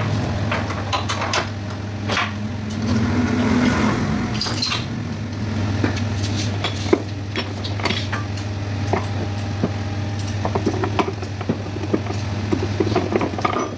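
Metal tools and parts clinking and tapping against each other in a string of irregular sharp clinks, over a steady low hum.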